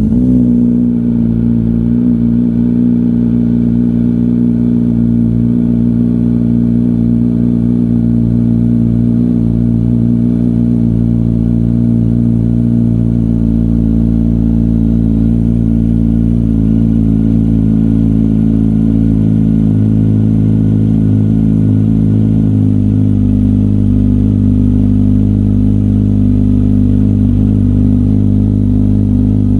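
Kawasaki Z900's inline-four engine idling steadily through a LeoVince LV-10 titanium slip-on exhaust, just after a cold start. The note is deep and holds a constant pitch without revving.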